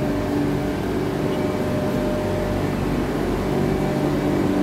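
Steady hum of an Airport Rail Link electric train standing at the platform, its on-board air conditioning and equipment running, with a few steady tones over a low rumble.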